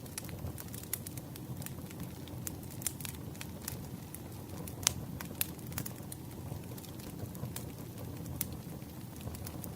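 Campfire crackling: irregular sharp pops and snaps over a low, steady rumble of burning flames, with one louder pop about five seconds in.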